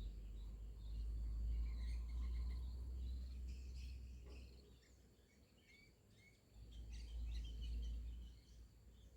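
Outdoor ambience of scattered small-bird chirps over a steady high insect drone, with a low rumble that swells twice and is the loudest thing heard.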